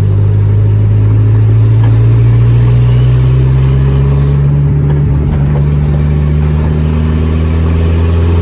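Turbocharged 1.6 engine of a Corsa pickup pulling at light throttle, its note rising slowly over the first few seconds and then holding fairly steady. The engine is on its original, untuned injection.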